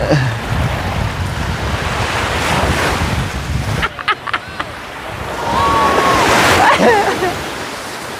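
Wind buffeting the microphone over the wash of sea waves. The wind rumble drops off about four seconds in, and the surf swells after that, with a few faint distant voices.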